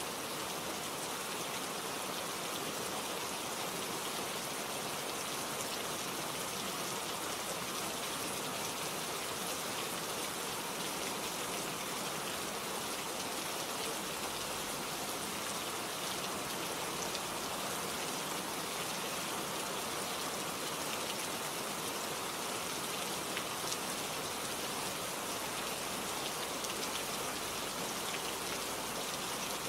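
Steady rain falling, with fine pattering of drops on leaves and other surfaces.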